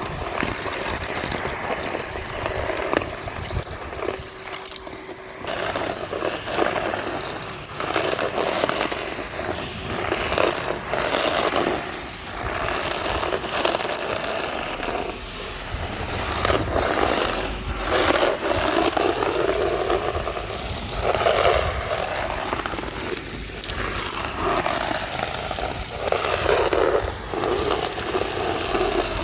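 Numatic Henry HVR200-22 vacuum cleaner running and sucking up grit and debris from a street, making crunchy noises that swell and fade as the nozzle moves over the ground.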